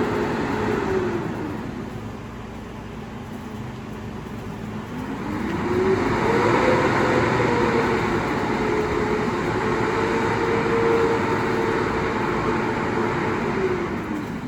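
Garbage truck's diesel engine dropping to a low idle about a second in, then revving up around five seconds in and holding a high steady speed for about eight seconds before dropping back near the end.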